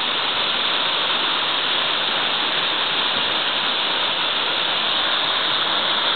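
Waterfall plunging into its pool: a steady, loud rush of falling water, strongest in the upper hiss.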